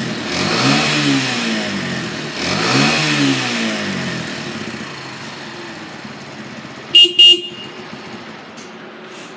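Kawasaki Eliminator 125's single-cylinder four-stroke engine revved twice, each time rising and falling back, then settling to idle. About seven seconds in, the motorcycle's horn beeps twice in quick succession, the loudest sound here.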